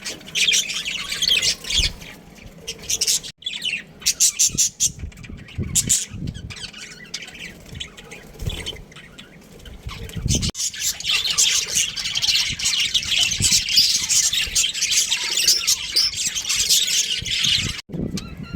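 Budgerigars chirping and squawking in rapid, high-pitched chatter, densest in the second half and cutting off suddenly near the end.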